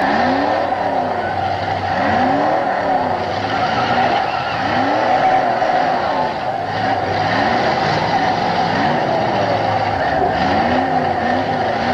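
Demolition-derby car engines revving up and falling back over and over as the cars back up and ram one another on dirt, with tyres spinning.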